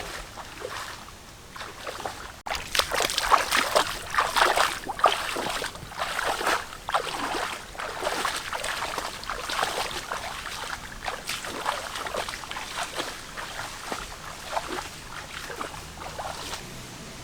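Water splashing and sloshing in quick, irregular strokes, starting about two and a half seconds in and loudest soon after.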